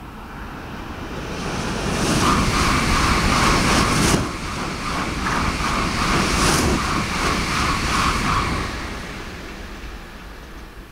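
Sanyo Shinkansen high-speed train passing at speed just below. Its rushing noise builds over about two seconds and stays loud for about six, with a quick, even pulsing as the cars go by and a sharp crack about four seconds in. It then fades away.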